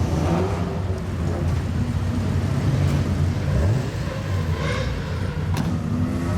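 Car engine running with a loud exhaust rumble, its pitch dipping briefly and picking up again about midway, with a sharp click near the end.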